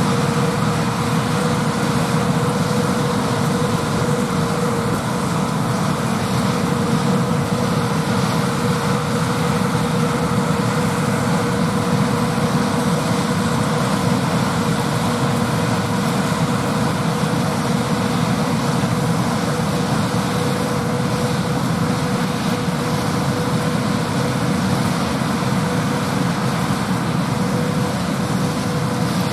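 John Deere 8R tractor pulling a six-row peanut picker, engine and picker running steadily at harvest, with a constant hum.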